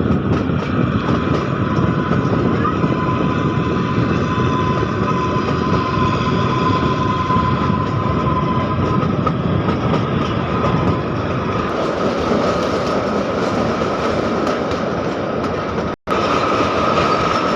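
Kalka–Shimla narrow-gauge train running with a loud, steady rumble and wheel clatter, a high steady tone held over it. The sound cuts out for an instant near the end.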